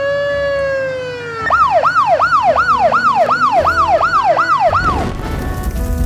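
Cartoon police-car siren effect: one long drawn-out wail, then a fast yelp sweeping up and down about three times a second. Near the end it gives way to a loud, noisy rush.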